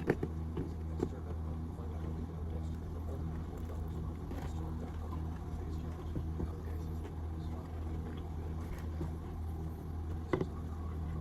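A steady low mechanical hum with a few light clicks, one about a second in and another near the end.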